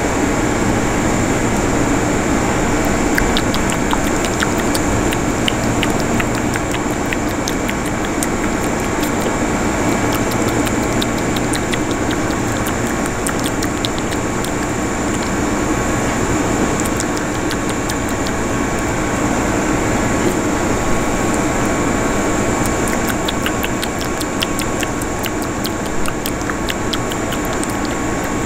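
A train standing at the station platform, its machinery running with a steady hum. A few faint steady tones and light high ticking sit over it.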